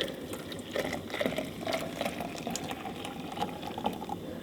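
Eggs frying in a pan, sizzling with a crackle of many tiny pops.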